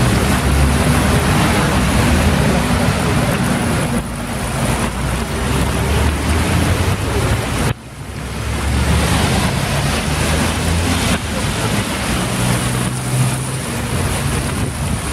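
Heavy rain with wind buffeting the microphone: a loud, steady rushing noise with an uneven low rumble, briefly cut short about eight seconds in.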